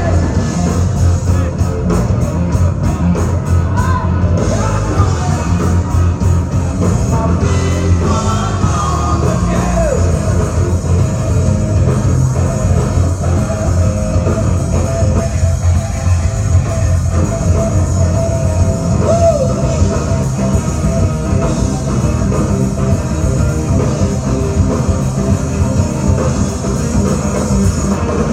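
Loud rock music with singing, a band playing.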